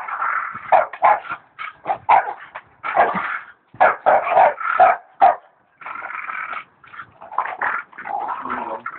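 Dogs barking and yelping in quick, short bursts, one cry hard on the next, during a dog fight.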